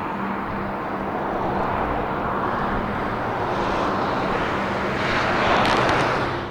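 Strong winter storm wind rushing, swelling to its loudest in a gust near the end, with a faint steady low hum underneath.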